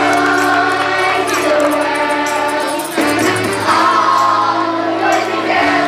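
A children's school chorus singing a song together with accompaniment, holding sustained notes, with a light jingling percussion on top.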